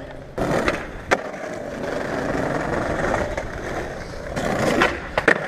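Skateboard wheels rolling over pavement, with sharp clacks of the board about a second in and again near the end.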